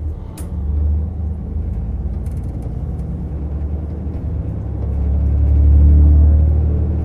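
Onboard running sound of a JR Hokkaido KiHa 150 diesel railcar: a steady low engine and rail rumble that swells louder about five to six seconds in. A single sharp knock comes just under half a second in.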